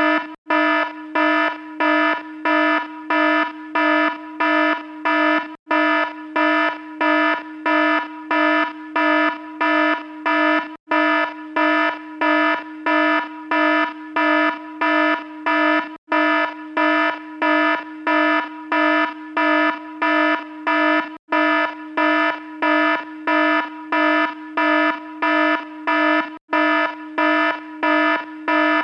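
An electronic alarm beeping about twice a second in a buzzy, harsh tone, with a brief break about every five seconds.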